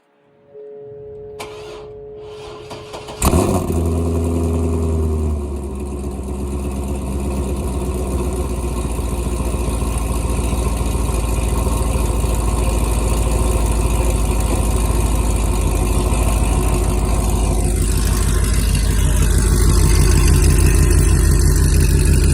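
2006 C6 Corvette's LS2 V8 cold-starting through catless headers and a Corsa cat-back exhaust. A faint hum and brief cranking give way about three seconds in to the engine catching with a sharp bang and a high flare. It then settles into a loud, steady high idle, having started up a little rough.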